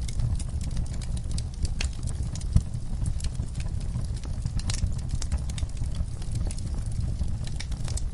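Wood fire burning in a fireplace: steady low rumble of the flames with many irregular crackles and pops. One louder pop comes about two and a half seconds in.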